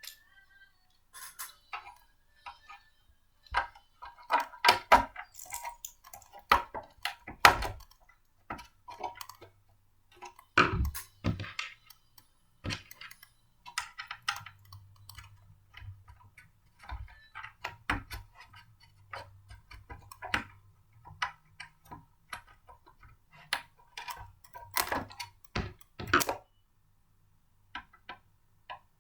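Blender parts being handled and fitted together: irregular clicks, knocks and clatters, some ringing briefly.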